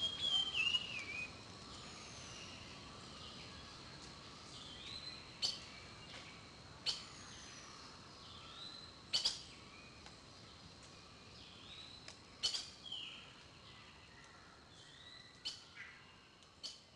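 Birds calling: a falling, warbled call at the start, then short sharp chirps every one to three seconds over a faint hiss.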